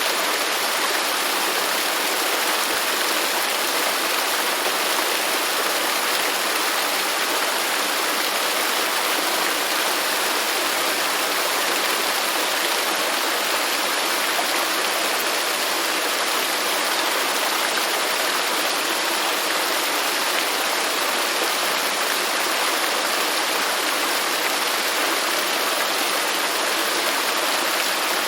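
Waterfall: falling water rushing in a steady, even hiss with no change.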